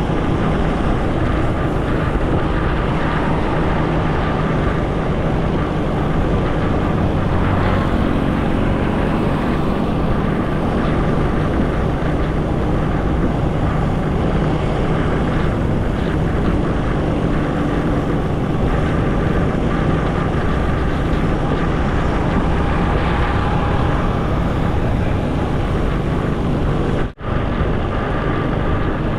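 Motorcycle riding at speed: steady engine and road noise with wind buffeting the action-camera microphone. The sound cuts out for an instant near the end.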